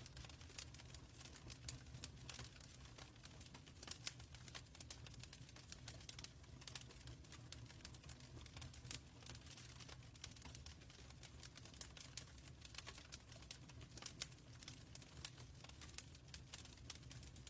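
Fireplace fire crackling quietly: irregular small pops and snaps, several a second, over a steady low rumble.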